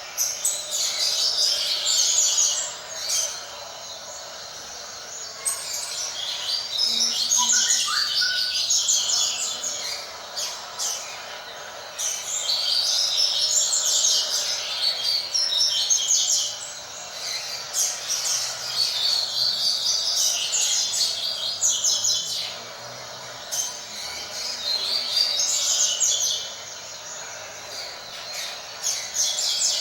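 Double-collared seedeater (coleiro) singing its tui-tui song, six phrases of three to four seconds each with short pauses between.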